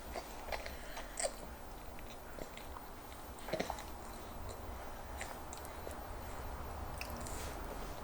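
Faint chewing and mouth smacks from toddlers eating pasta, with scattered small clicks over a steady low hum.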